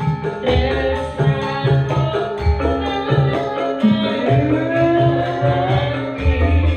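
Live Javanese sragenan music: hand-drum strokes and a tambourine keep a steady beat under pitched melody lines, with a sliding vocal-like melody in the middle.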